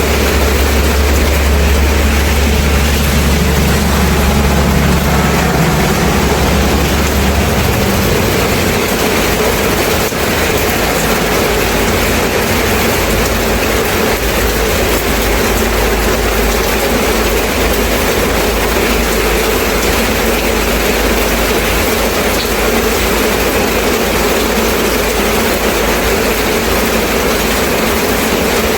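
Steady rain falling. A low engine rumble sits under it for the first several seconds and fades out about a quarter of the way in.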